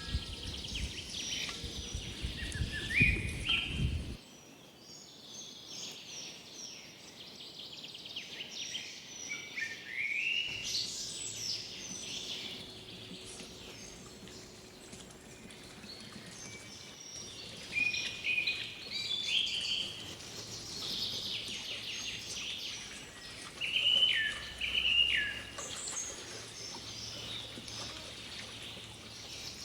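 Birds chirping and singing: many short, repeated calls and quick whistled notes, some rising and some falling, overlapping throughout. A low rumble under the birds for the first four seconds stops abruptly.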